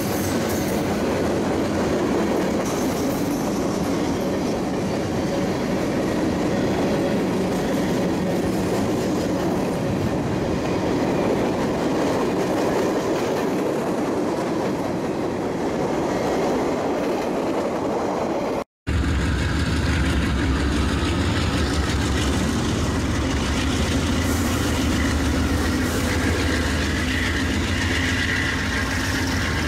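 Freight cars rolling past close by: a steady rumble of wheels with clickety-clack over the rail joints. After a sudden cut about two-thirds of the way through, the deep, steady engine rumble of Norfolk Southern diesel freight locomotives.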